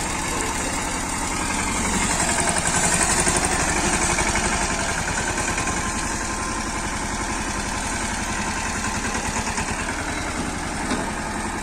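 Swaraj tractor's diesel engine running steadily with a fast even chug. It swells louder for a couple of seconds about two seconds in, then settles back.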